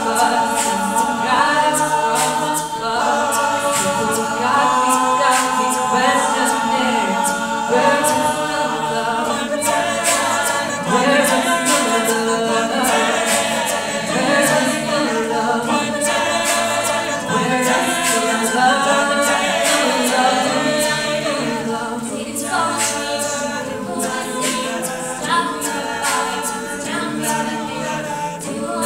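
Mixed-voice a cappella group singing in harmony, several voices holding chords together, with vocal percussion keeping a steady beat.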